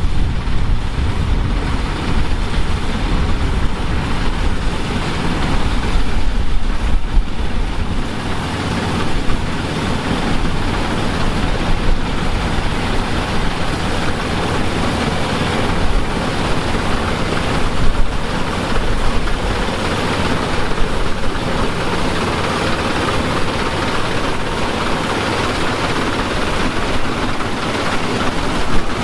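Vintage farm machinery engine running steadily at harvest work, with a heavy low rumble.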